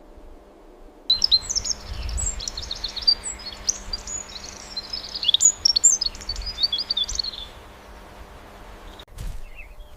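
Small songbirds chirping and twittering in quick, high-pitched notes and trills, starting abruptly about a second in and dying away about two seconds before the end.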